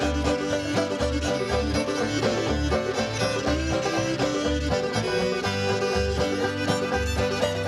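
An old-time string band plays an instrumental break, with fiddle and banjo lead over guitar and a low bass note on the beat about once a second.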